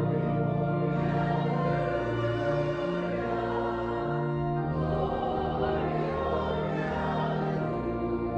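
Organ playing held chords with voices singing a hymn over it.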